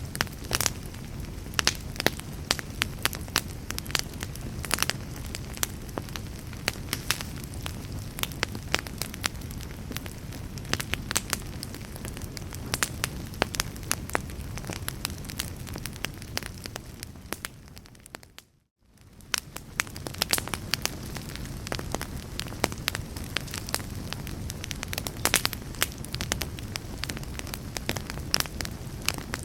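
Log fire crackling, with many irregular sharp pops and snaps over a low steady rumble of flame. About eighteen seconds in it fades down to near silence for a moment, then fades back up.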